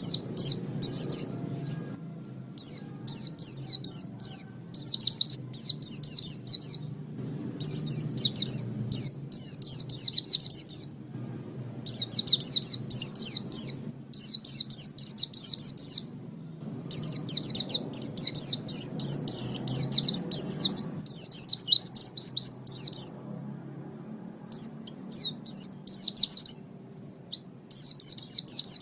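Pleci (white-eye) singing a rapid, very high twittering song in bursts of one to three seconds with short pauses between, over a faint low background rumble.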